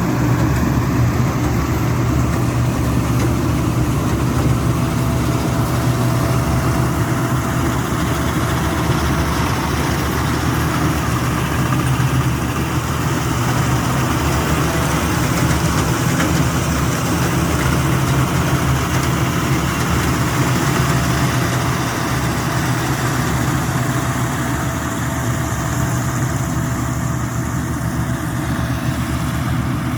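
Rice combine harvester's diesel engine running at a steady pace, a constant low hum under a steady mechanical rush.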